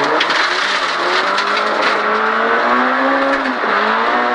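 Volkswagen Golf 16S rally car's 16-valve four-cylinder engine accelerating hard, heard from inside the cabin, its pitch rising for about three seconds, dipping briefly, then holding steady. Gravel road noise from the tyres runs under it.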